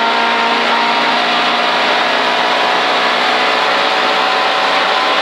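2-litre Toyota Corolla Twincam rally car's engine running at steady revs, heard from inside the cabin over a loud, even rush of road noise.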